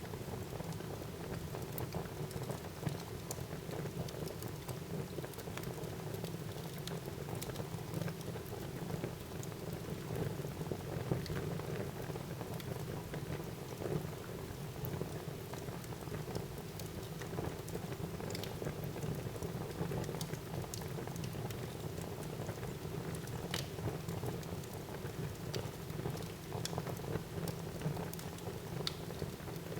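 Wood fire burning in a fireplace: steady crackling with scattered sharp pops over a low, even rumble of the flames.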